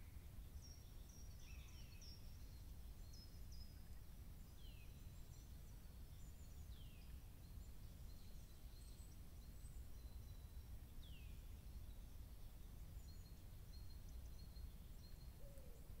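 Faint calls of small woodland birds: scattered short high chirps and a few downward-sliding notes, over a low steady background rumble.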